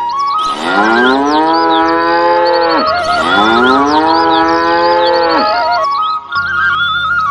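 Cow mooing twice, two long low calls one after the other, over background music with a flute-like melody and bird chirps.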